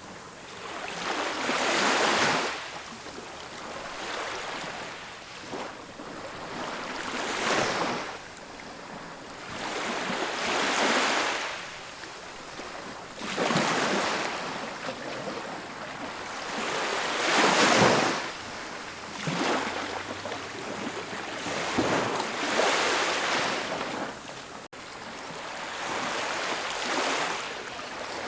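Ocean waves breaking on a beach: surf swelling and washing back in repeated surges every few seconds, with the loudest break about eighteen seconds in.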